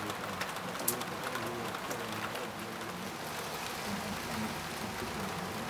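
Rain falling on a wet wooden balcony deck: a steady hiss of rain with scattered single drops ticking, one sharper tick about a second in.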